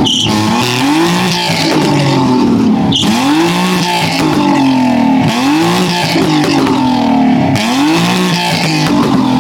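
A car spinning donuts, its engine held at high revs with the pitch swinging up and down about once a second, over a continuous hiss of tires squealing on the pavement.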